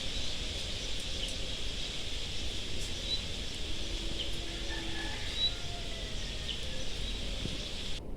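Outdoor ambience: a few short, high bird chirps, about three and five and a half seconds in, over a steady high hiss and a low rumble.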